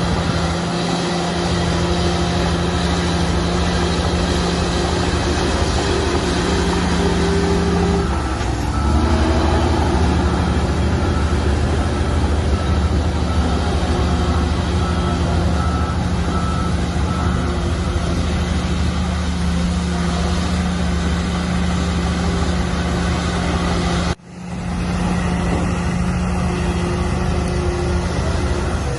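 Heavy diesel engines of construction machinery running steadily under load, the engine note shifting about eight seconds in. A reversing alarm beeps at about two beeps a second for a few seconds midway.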